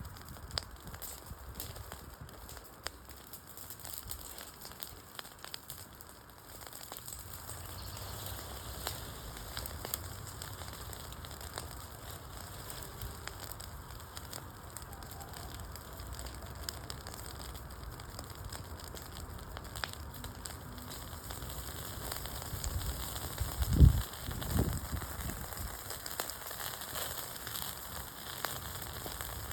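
Wood campfire burning with a steady hiss and frequent sharp crackles and pops from the burning logs. About four-fifths of the way through come two dull low thuds close together.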